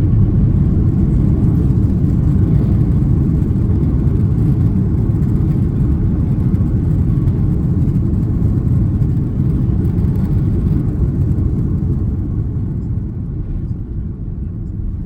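Airbus A330 cabin noise: a steady low rumble of engines and airflow heard from inside the passenger cabin, easing off somewhat about twelve seconds in.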